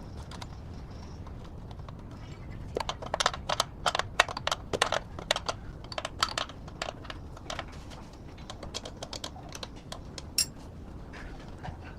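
A quick, irregular run of sharp clicks and taps over a low steady rumble, then a few scattered clicks and one louder click near the end.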